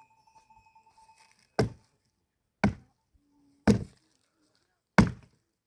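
Wood being chopped: four sharp strikes, roughly one a second.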